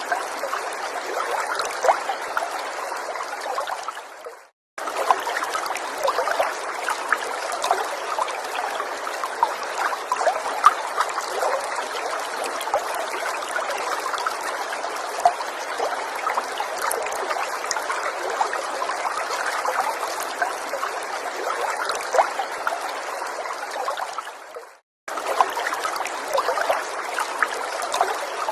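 Small stream trickling and babbling over stones, a steady rush of water with many small splashes and drips. It fades out and cuts back in twice, about four seconds in and again near the end, where the recording loops.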